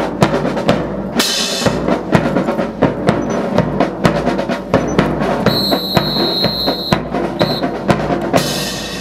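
Marching drums, snare and bass, playing a steady drill cadence with rapid, even strikes. Brief bursts of hiss sound about a second in and near the end, and a long high steady tone followed by a short one sounds a little past the middle.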